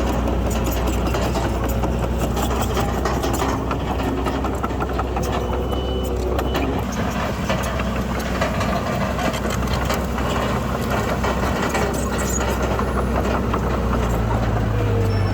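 Heavy diesel earthmoving machinery running steadily with a deep engine drone. A stronger, deeper engine tone swells near the end.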